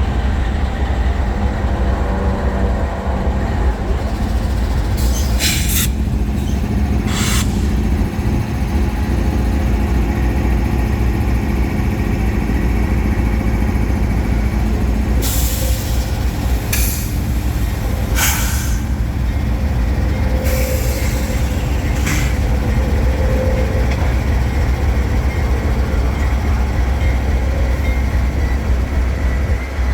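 Norfolk Southern freight train rolling past with a steady low rumble of wheels and cars, broken by about half a dozen short, sharp metallic noises from the wheels on the rails.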